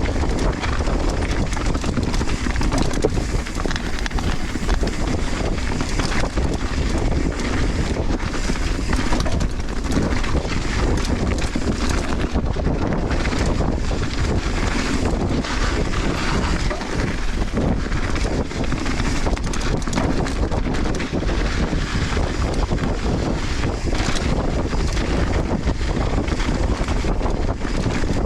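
Wind rushing over a GoPro Hero 11's microphone as a downhill mountain bike descends a dirt trail, with the bike's frequent knocks and rattles over bumps.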